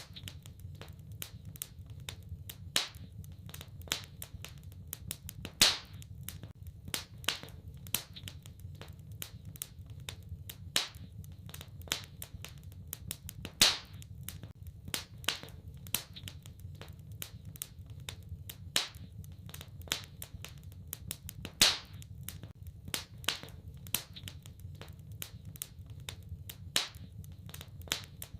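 Wood fire in a fireplace crackling: irregular sharp pops and snaps, several a second, with a louder crack every few seconds, over a steady low rumble.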